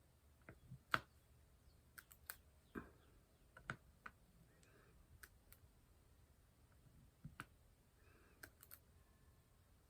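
Scattered light clicks and taps of diamond painting work: a drill pen and small plastic drills on the canvas and tray, about a dozen irregular clicks with the loudest about a second in, and a soft rustle or two between them.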